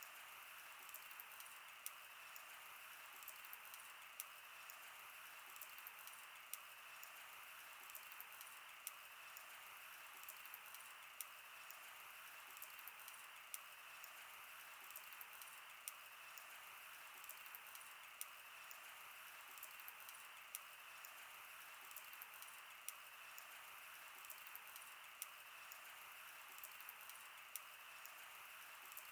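Wood fire crackling: a steady soft hiss with frequent sharp pops and snaps at irregular intervals.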